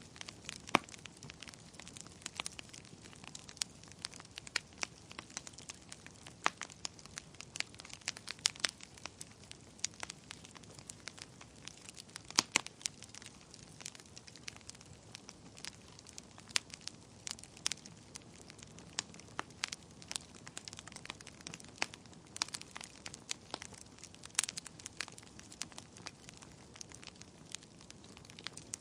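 Wood fire burning in a fireplace, crackling with many irregular sharp pops and snaps over a faint steady hiss.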